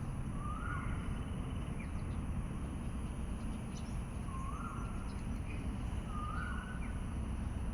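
An animal gives three short calls, each rising in pitch and then held briefly, over a steady low rumble of background noise.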